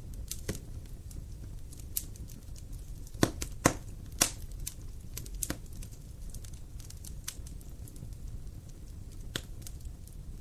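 Wood fire crackling: irregular sharp pops and snaps over a low, steady rumble, with a few louder pops about three to four seconds in.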